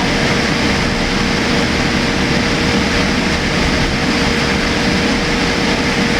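Steady cabin noise inside a Boeing 787-8 airliner: an even rush of engine and air noise with a constant hum tone running through it.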